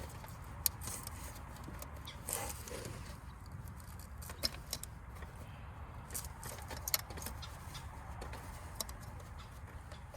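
Scattered metallic clicks and clinks of hand tools and parts as ignition coils and spark plugs are removed from a car engine, over a steady low hum.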